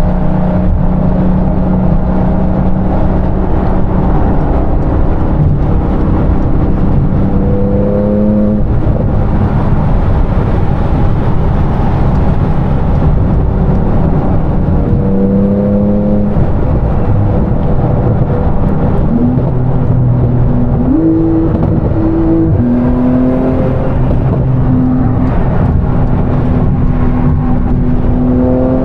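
Car engine running steadily while driving, over road noise, its pitch rising briefly about eight seconds in and again about halfway through, then stepping up and down a few times before rising again at the very end.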